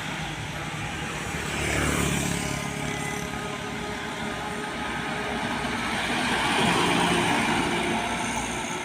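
Road traffic: trucks and other vehicles driving past, engine and tyre noise swelling twice as vehicles go by, about two seconds in and again near the end.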